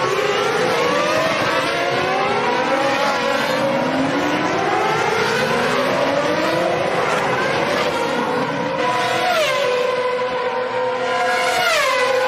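2006 Formula One cars' 2.4-litre V8 engines running at full throttle, several at once, each pitch climbing and snapping back through upshifts. From about nine seconds in, engine notes fall in steps as the cars downshift under braking.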